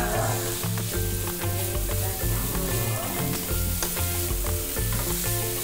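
Split gill mushrooms (kulat sisir) and sautéed aromatics sizzling in hot oil in a non-stick wok as they are stirred, with the spatula scraping and tapping against the pan now and then.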